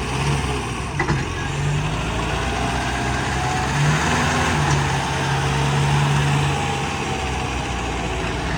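Tractor diesel engine running, a little louder from about four seconds in, with one sharp knock about a second in.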